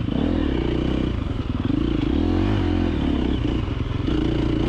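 KTM 350XC-F four-stroke single-cylinder dirt bike engine being ridden hard off-road, the revs rising and falling several times as the throttle is opened and closed.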